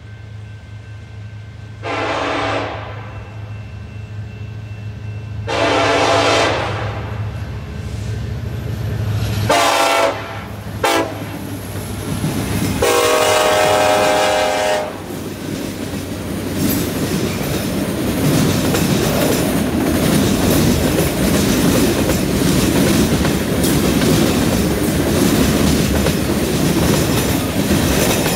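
Diesel freight locomotives approaching and sounding their air horn in five blasts: two long, a shorter one with a quick toot after it, and a final blast about two seconds long. Then the locomotives pass and the freight cars rumble by, their wheels clacking over the rail joints and switch.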